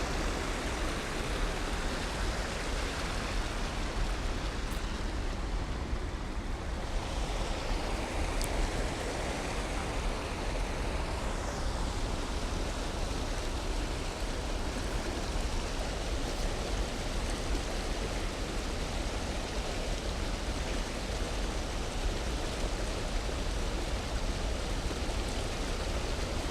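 Steady rushing of flowing river water, an even noise with a low rumble underneath.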